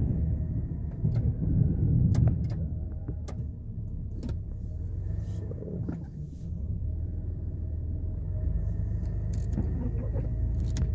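Plow truck's engine and drivetrain rumbling, heard from inside the cab, louder for the first couple of seconds, with scattered sharp clicks and knocks.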